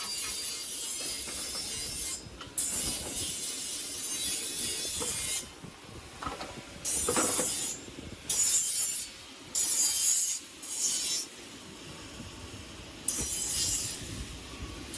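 A hand tool scraping along wood in separate strokes, two long ones of two to three seconds and then several shorter ones of about a second each, each a high scraping hiss.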